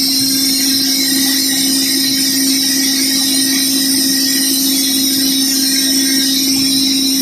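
Simba S7D long-hole drill rig drilling with its top-hammer rock drill, a 64 mm bit on T38 rods. It runs as a loud, unbroken machine noise with a constant hum and a high hiss over it.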